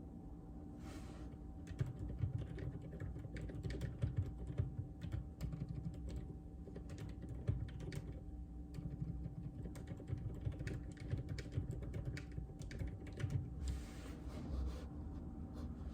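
Typing on a JJK84 mechanical keyboard with Outemu Silent Peach linear switches: quick, irregular runs of keystrokes that start about two seconds in and thin out near the end.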